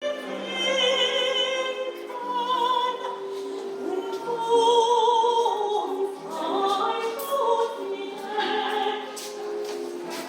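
A trainee opera singer singing in a classical style, holding long notes with vibrato and moving between pitches.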